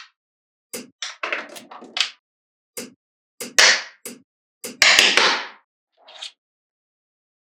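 Small magnetic balls clicking and clattering as they snap together, in a run of sharp clicks and short rattles. The last second is silent.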